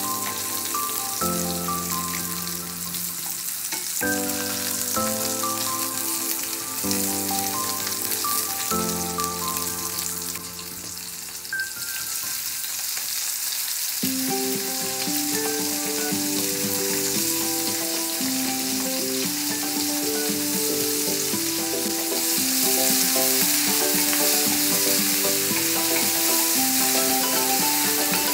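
Oil sizzling in a stainless steel frying pan as whole spices and sliced red peppers fry and are stirred with a wooden spatula. The sizzle grows louder near the end. Background music plays over it.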